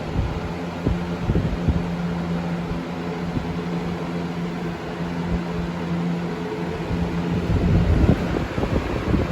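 Lasko Weather-Shield box fan running steadily: a constant motor hum over the rush of moving air, with irregular low rumbling gusts that are heaviest about eight seconds in.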